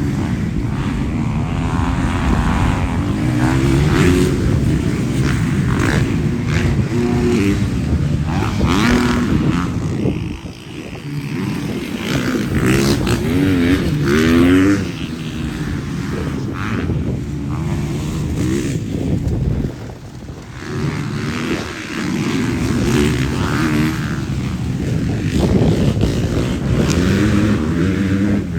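Several motocross bikes racing, their engines revving up and falling back over and over as they accelerate and shift, with two brief dips when the bikes pull away.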